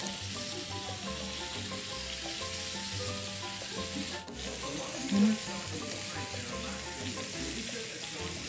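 Food frying in a pan: a steady sizzle, with quiet background music of stepping notes over a bass line.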